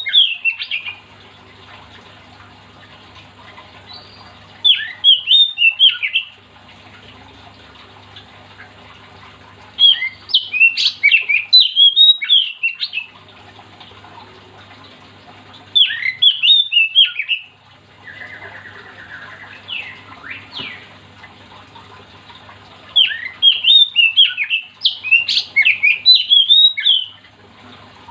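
Oriental magpie-robin (kacer) singing in loud phrases of rapid, sharp, chattering notes. There are five bursts, each one to three seconds long, with pauses between them. A steady low hum runs underneath.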